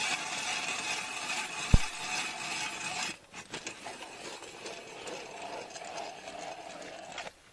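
Ice auger boring through river ice with a steady grinding and scraping, and one sharp knock about two seconds in. About three seconds in the sound changes abruptly to a quieter, rougher scraping.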